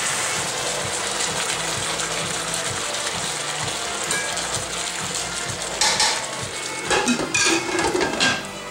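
Stir-fried chicken sizzling in a hot pan, with a steady hiss throughout. A metal utensil clinks and scrapes against the pan and plate several times between about six and eight seconds in as the chicken is served onto the rice.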